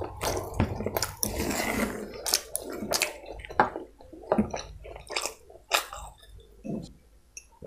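Close-miked wet chewing, mouth smacks and clicks of someone eating chicken biryani, dense for the first couple of seconds and then as separate clicks, with a sip of water near the end.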